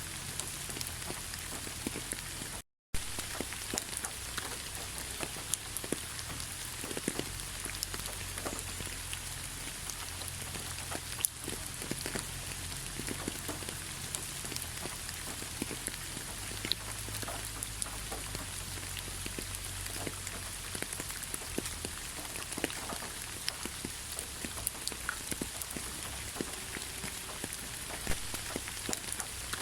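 Steady rainfall, a constant hiss with many individual raindrops ticking and pattering close by. The sound cuts out completely for a split second about three seconds in.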